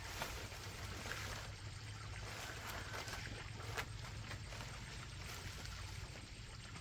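Steady running water, with a couple of sharp clicks: one near the start and one a little before four seconds in.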